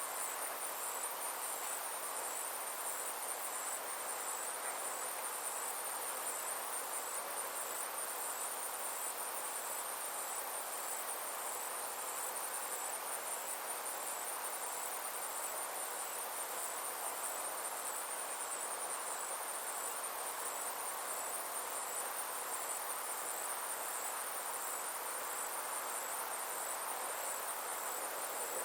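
Summer insects chirring in a steady, high-pitched pulsing trill, over a soft, even background hiss.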